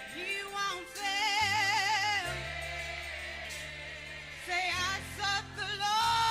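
Gospel choir singing with vibrato over sustained bass notes from the accompaniment, in a slow song with held notes.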